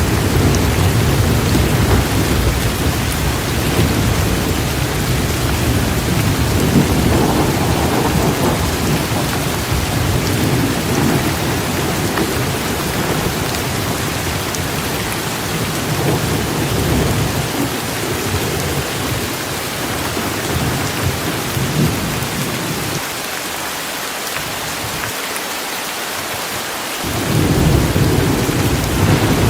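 Heavy rain falling steadily, with a continuous rolling rumble of thunder underneath. The rumble fades out for a few seconds near the end while the rain keeps on, then swells back.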